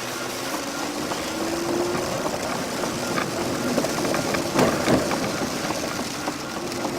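Vehicle engine running while driving, its pitch rising over the first couple of seconds as it accelerates, over a steady wash of road and rain noise with scattered clicks. There is a louder burst of noise about halfway through.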